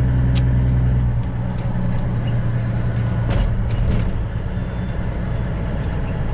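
Straight-piped heavy truck's diesel engine running with a steady low drone that turns rougher and more uneven about a second in, with a few sharp clicks or knocks over it.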